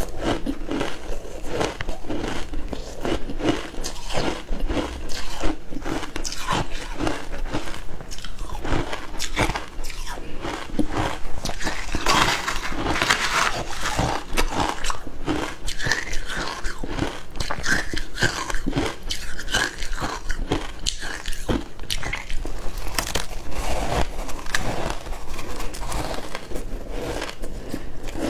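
Someone biting and chewing frozen matcha ice: dense, irregular crunching and cracking, loudest around the middle.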